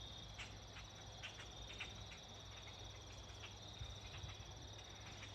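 Faint evening insect chorus: crickets trilling steadily at a high pitch, with a scattering of short, sharp bird chirps.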